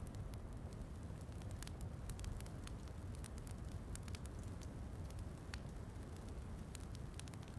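Wood fire crackling in a fireplace, many small sharp pops scattered irregularly, over a steady low rumble of rain.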